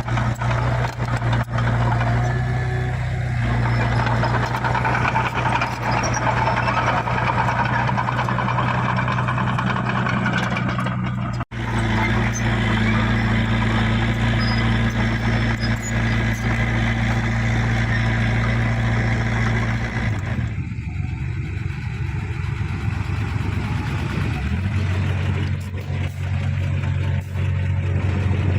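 Heavy diesel earthmoving machinery running steadily under work, with a deep, even engine note. The sound cuts out for an instant about eleven seconds in, and the engine note shifts around twenty seconds in.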